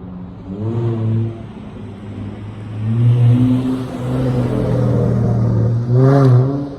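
Dodge Charger SXT's V6 through a Flowmaster Outlaw exhaust, revving in bursts: a short blip just under a second in, a longer rise held from about three to six seconds, and a quick sharp blip near the end.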